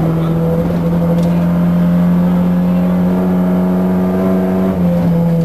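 Volvo 940 rally car's engine held at high revs, heard from inside the cabin at speed on gravel. The pitch climbs a little over the first two seconds and then holds steady, with a brief dip near the end.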